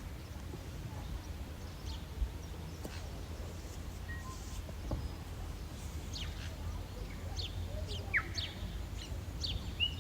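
Birds chirping: short, sharply falling calls, sparse at first and coming more often in the second half, over a steady low rumble.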